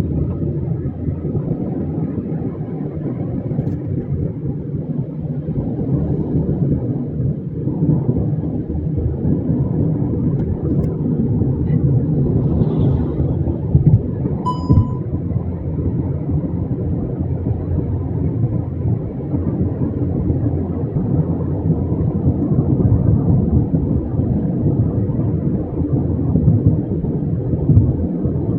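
Steady low rumble of a moving vehicle, with a brief short tone about halfway through.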